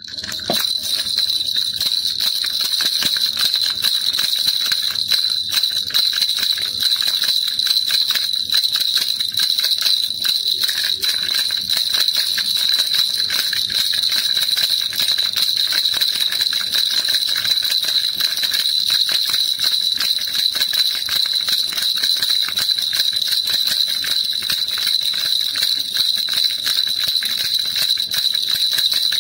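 Baby rattle shaken steadily, a dense continuous jingling with a bright ringing tone, after a brief break right at the start.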